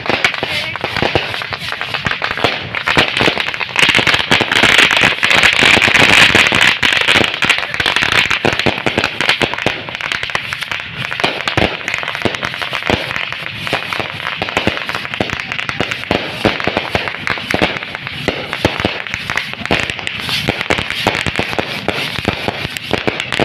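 Fireworks and firecrackers going off in a dense, continuous crackle of rapid pops, loudest about four to eight seconds in.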